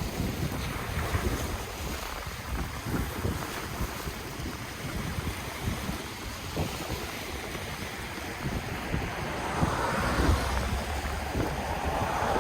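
Ocean waves washing on the shore, with wind buffeting the microphone. A wave surges louder about ten seconds in, and another near the end.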